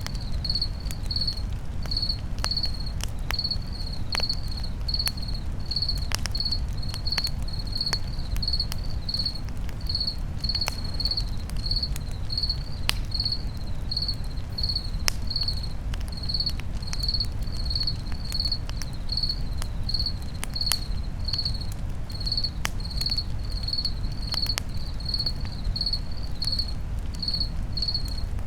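Crickets chirping steadily, about two chirps a second, over a crackling campfire with sharp pops and a low rumble of burning.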